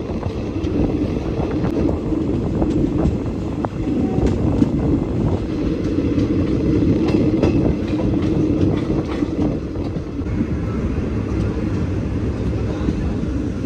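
Passenger train running along the track, a steady loud rumble with faint wheel clatter, heard from an open window of the coach.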